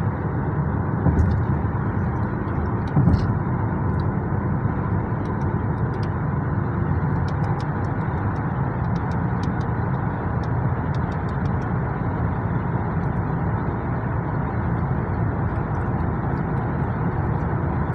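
Car driving on a road, a steady rumble of tyres and engine, with a couple of short bumps in the first few seconds.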